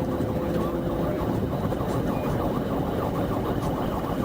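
Steady vehicle engine and road noise, with no single loud impact standing out.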